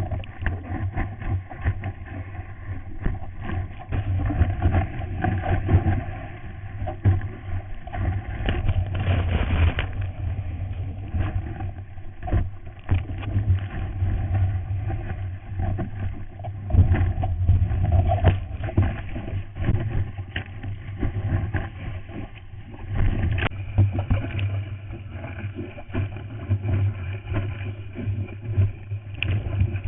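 Seawater rushing and splashing against an early GoPro Hero's waterproof housing while surfing, with a heavy low rumble and frequent knocks from water hitting the case. Muffled and dull, with no top end.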